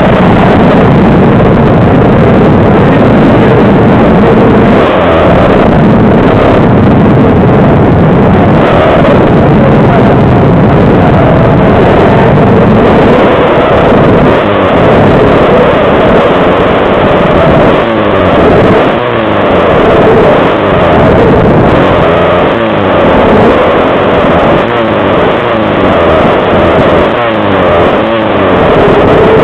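Small pit bike engines racing at full throttle, revving up and dropping off again and again as the throttle is worked, loud and close to the microphone.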